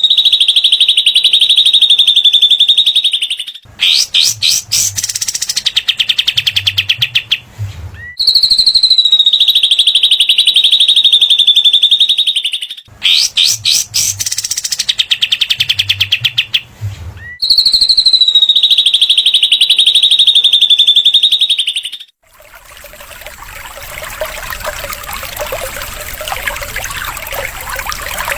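Recorded cililin and katem song played as a looped masteran track. A long buzzing 'besetan' trill alternates with bursts of rapid sharp clicking chatter, the cycle repeating about every four and a half seconds. About three-quarters of the way through, the song stops and a steady sound of trickling water takes over.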